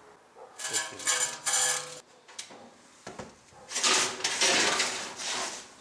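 Metal clinking and clattering in a few quick ringing strikes, followed about two seconds later by a longer scraping, rustling clatter.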